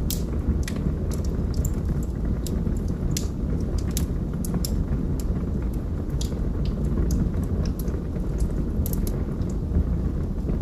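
Log fire burning in a fireplace: a steady low rumble of flames under irregular sharp crackles and pops from the burning wood, about two a second.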